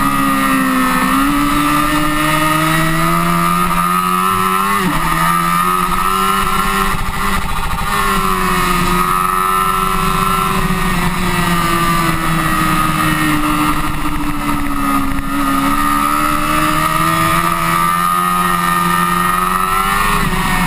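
Honda CBR1000RR's inline-four engine pulling hard at high speed, heard from on the bike with wind rush over it. The engine note drops suddenly about five seconds in as it shifts up a gear, then rises and falls slowly with the throttle.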